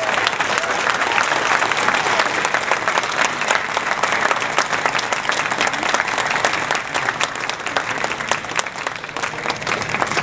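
An audience applauding: many hands clapping together in a dense, steady patter that thins out a little near the end.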